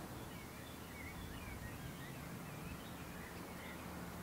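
Small birds chirping in short scattered calls over a faint steady low rumble of distant background noise.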